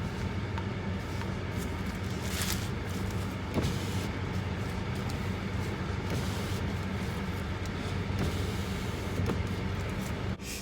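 Car engine running steadily, heard from inside the cabin as a low hum, with a short click about three and a half seconds in.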